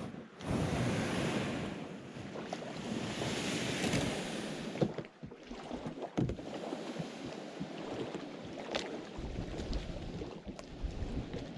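Kayak paddle splashing and water sloshing against the hull, with wind buffeting the microphone; a loud stretch of rushing noise in the first few seconds, then uneven splashes and knocks.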